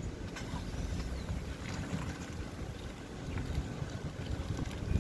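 Low, uneven rumble of a vehicle on the move, with wind buffeting.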